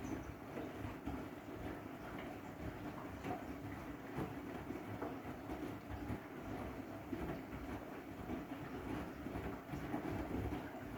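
Washing machine running a wash cycle with blankets inside: a continuous rumble with uneven low knocks as the drum turns.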